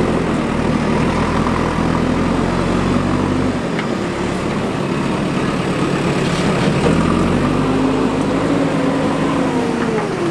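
Diesel engine of a JCB 3DX backhoe loader working, its pitch rising and falling as it is revved up and eased off. The deep low rumble drops away for a few seconds in the middle, then comes back.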